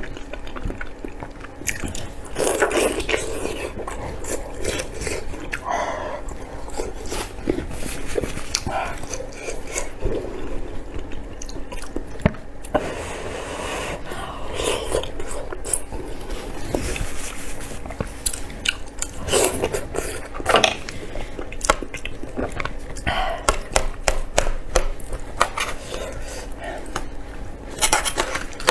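A person biting and chewing Chinese cured pork (larou), with many short mouth clicks and smacks throughout.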